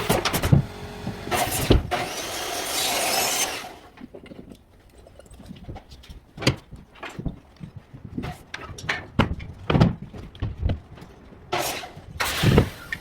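Carpentry work: a power tool runs for about the first three and a half seconds, then scattered knocks and clatter of timber and tools being handled, with a few sharper bangs near the end.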